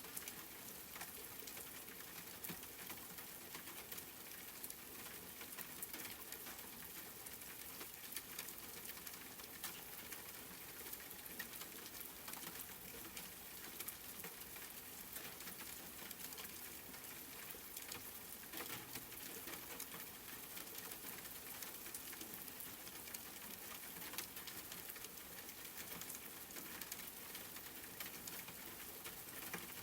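Steady rain falling, an even hiss with a dense patter of small drop ticks.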